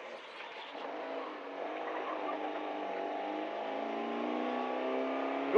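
Fiat 127 Group 2 rally car's 903 cc four-cylinder engine heard from inside the cabin, quiet at first, then accelerating out of a left hairpin with its pitch and loudness rising steadily.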